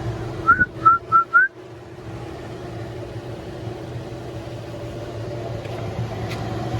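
Four quick, high whistle-like chirps in a row about half a second in, some rising slightly in pitch, over a steady low mechanical hum.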